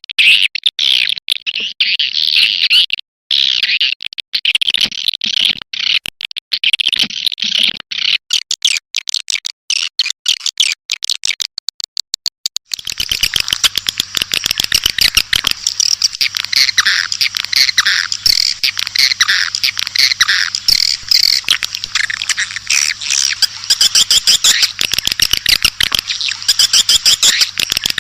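Recorded swiftlet calls, used as a lure sound for swiftlet nest houses: a dense, loud, high twittering chatter of many birds. About halfway through, the chatter becomes more continuous, with rapid clicking and a low steady hum underneath.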